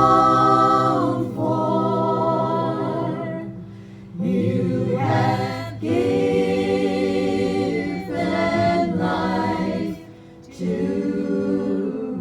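A group of voices singing a gospel hymn, seemingly unaccompanied, in long held phrases with two short breaks between lines.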